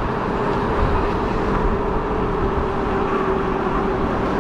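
Fat-tire e-bike in motion: a steady whine over a low rumble of wind and tyres on the road.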